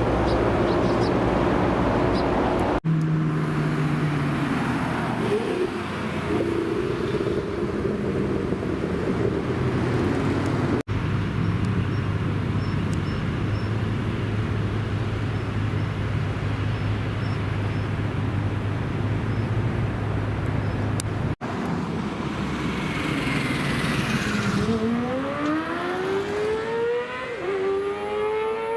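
American car engines idling steadily in several short takes. Near the end an engine revs up and accelerates away, its pitch climbing.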